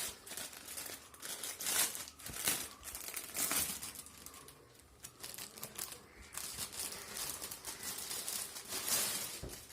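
Packaging of a dress from an online order being handled and opened, crinkling and rustling in irregular bursts.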